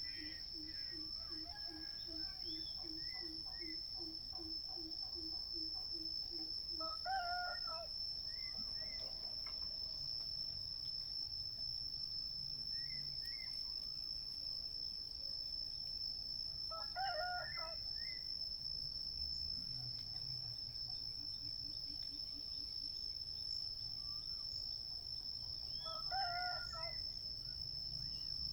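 A bird call given three times, roughly nine to ten seconds apart, each a long call of several stacked tones, over a steady high-pitched insect drone. A low pulsing call, about four pulses a second, runs for the first seven seconds or so.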